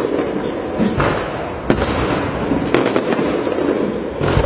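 Firecrackers crackling densely and without pause, with sharper louder bangs about a second in, again shortly after, and at the very end.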